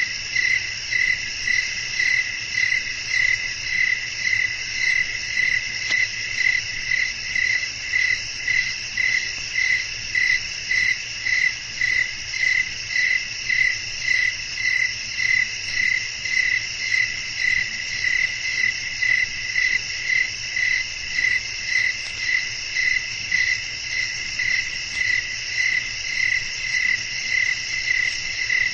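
Crickets chirping in a steady night chorus: one insect gives a bright, even chirp about twice a second over a continuous higher trill from others.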